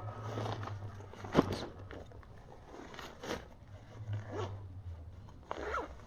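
Irregular clicks, knocks and scraping rattles over a steady low hum, the loudest knock about a second and a half in: rattling from riding over a rough road, which the rider puts down to vibrating armrests or the camera mount.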